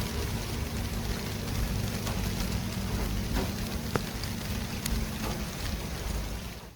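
City traffic ambience: a steady low rumble of traffic with a hiss of tyres over it and a sharp click about four seconds in. The sound drops out suddenly at the very end, then fades back.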